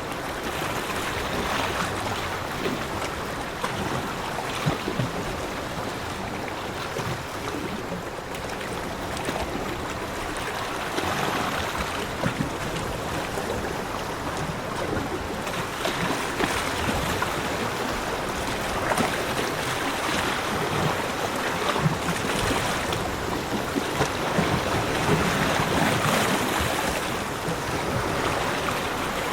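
Sea waves washing on a beach: a steady rush of water that swells and eases every few seconds.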